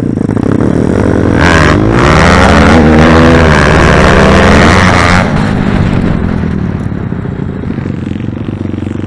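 Pit bike engine revving up hard, its pitch rising and staying loud for a few seconds, then dropping back to a lower, steadier running about halfway through.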